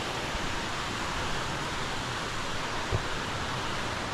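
Steady rush of a mountain creek cascading over rocks beside the trail, with one brief low thump about three seconds in.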